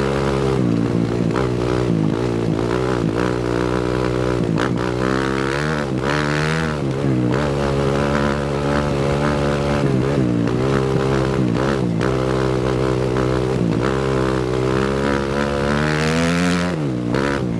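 A 250cc four-stroke single-cylinder motocross bike engine running under constantly changing throttle, its pitch rising and falling with several sharp dips as the rider rolls off and shifts over trail terrain. A few short knocks from the bike come through over rough ground.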